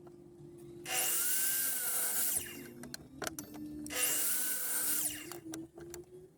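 A power tool working wood, run in two bursts of about a second and a half each, with small knocks between them.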